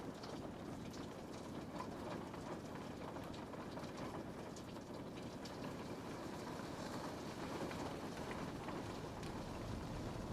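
Rain falling steadily on a window pane: an even hiss with scattered drop ticks, and a low rumble that grows a little toward the end.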